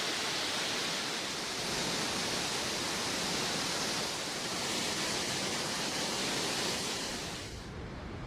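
Steady rushing hiss of floodwater, with no voice over it; the high part of the hiss falls away near the end.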